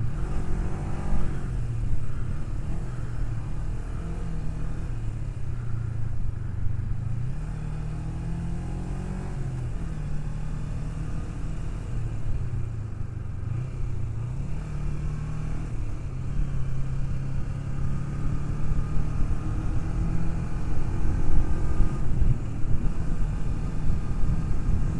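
Kawasaki Ninja 250R parallel-twin motorcycle engine running while riding, its pitch rising and falling several times with the throttle, over a low rush of riding noise. It gets louder in the last few seconds.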